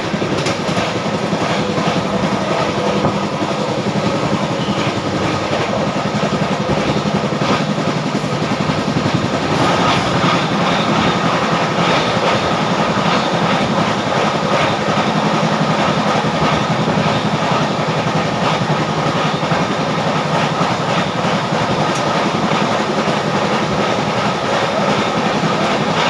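Passenger train running at speed on the tracks: a steady loud rumble of wheels on rail with rapid clicking from rail joints and points.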